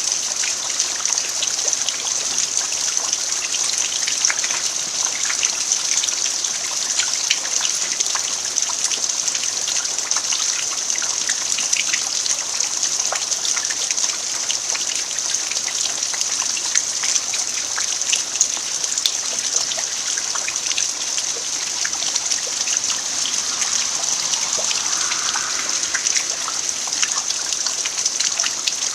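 Steady rain falling on an earthen farmyard, a dense hiss of rainfall with many separate drop ticks scattered through it.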